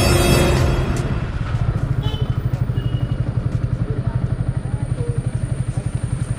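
Motorcycle engine running with a steady, rapid low pulse as the bike is ridden, with music fading out in the first second.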